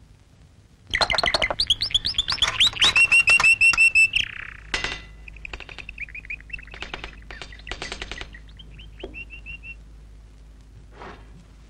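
Small birds chirping and twittering: a quick, loud run of short falling chirps after about a second, then softer chirps and trills, and one faint call near the end.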